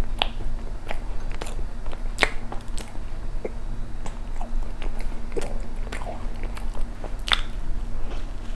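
Close-miked chewing of soft cream-filled bread: a string of irregular wet mouth clicks and smacks. A fresh bite of the bread comes near the end.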